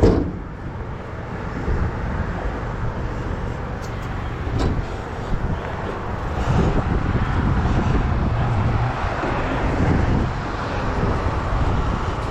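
Steady rumble of passing road traffic, with a couple of small clicks about four to five seconds in.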